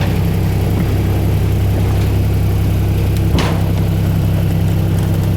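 Small tourist train's engine running steadily, a constant low drone heard from aboard the train, with one brief sharp click or clack a little over three seconds in.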